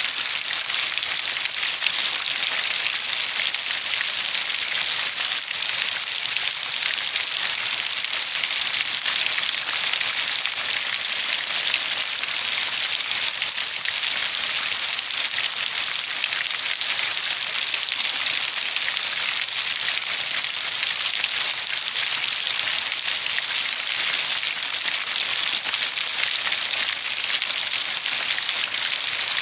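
Steady, heavy rainfall pattering on a surface, a dense even hiss of drops.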